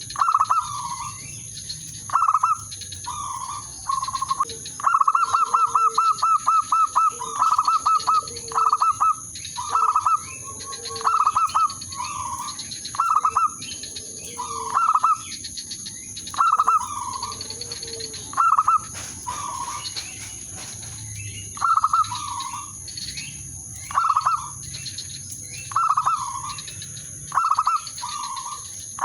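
A zebra dove (perkutut) decoy cooing to lure rival doves, repeating short staccato phrases every second or two. There is a fast rattling run of notes about five to seven seconds in. A steady high-pitched whine runs behind it.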